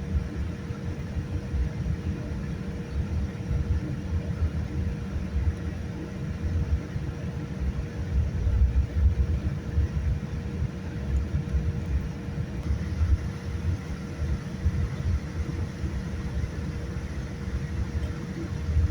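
Steady low rumble inside a Boeing 787-9's cabin, with a faint constant hum over it.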